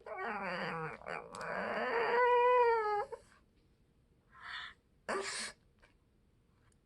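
A pet animal making strange vocal calls: one long, wavering, pitched call of about three seconds, then two short calls.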